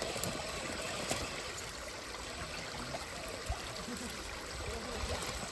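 Steady rush and trickle of flowing stream water.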